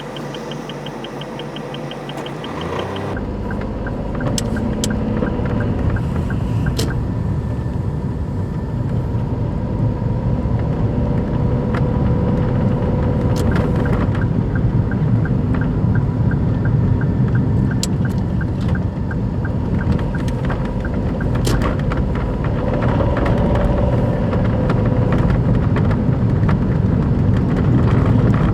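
Daihatsu Move Custom kei car heard from inside while driving: a dense, steady low rumble of engine and road noise that starts suddenly about three seconds in and slowly grows louder, with a regular light ticking twice and a few sharp clicks. The car has a torn engine mount bushing, which lets more engine noise into the cabin.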